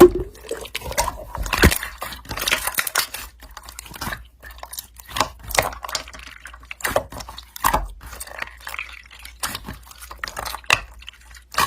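Slime being squeezed and played with by hand, making irregular wet, sticky clicks and pops.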